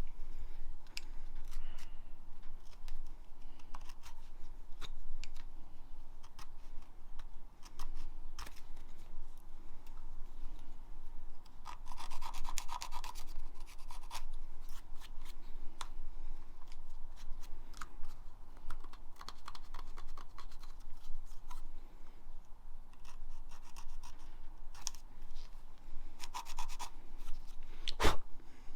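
Hand work on engine parts: scratching and scraping mixed with many light clicks. There is a denser stretch of scraping about twelve seconds in and another near the end, then one sharp knock.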